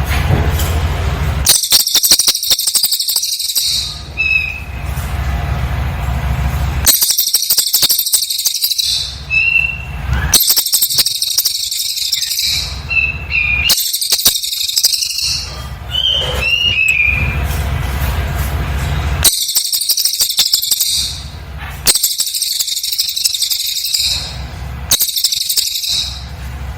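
Cililin bird singing in rapid-fire bursts of dense, very high-pitched notes, each about two seconds long, with short regular pauses between them. It gives seven bursts, with a few single whistled chirps in the gaps.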